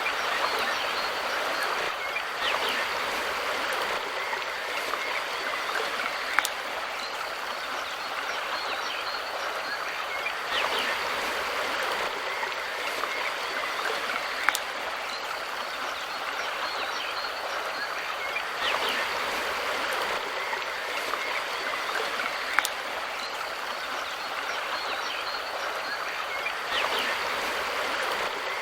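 Mountain river flowing steadily with an even rushing of water. A faint sharp click comes roughly every eight seconds.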